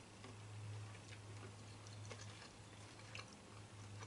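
Near silence: quiet chewing of food, a few faint soft clicks over a steady low hum.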